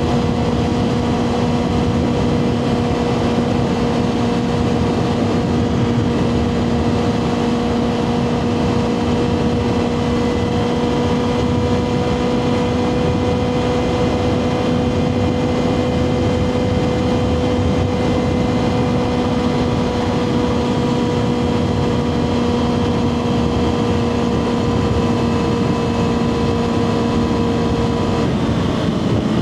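2024 Kawasaki ZX6R's inline-four engine through a Two Brothers slip-on exhaust, holding a steady high-revving note while cruising. The pitch stays nearly constant, then drops slightly near the end.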